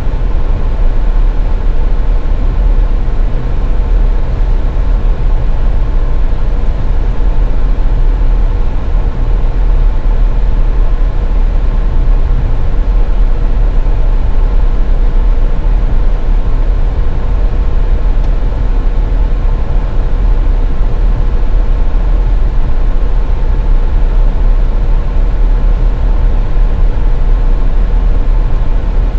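Car driving steadily on a highway: a loud, unchanging low rumble of engine and road noise, with a faint steady hum over it.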